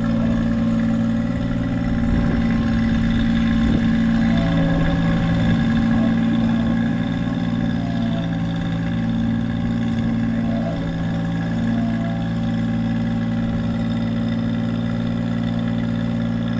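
An engine running steadily at a constant speed, with only small shifts in its note.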